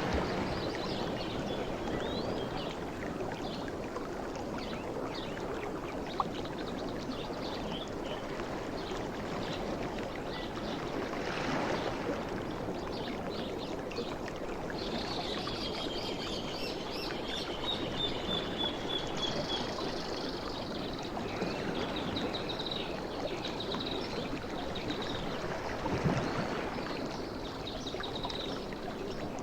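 Sea waves washing continuously, with a wave swelling and breaking about twelve seconds in and again near the end. Faint high chirping tones sound through the middle.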